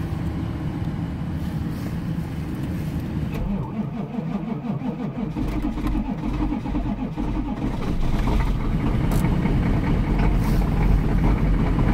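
Detroit 6.5 L V8 diesel cold-starting in deep cold after an hour on the block heater and glow-plug cycling: the starter cranks it with a pulsing chug for about four seconds, it catches about eight seconds in, and it settles into a louder, steady cold idle with a low rumble.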